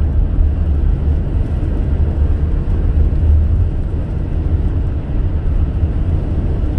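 Steady low rumble of a car driving on an expressway, with road and wind noise and no distinct events.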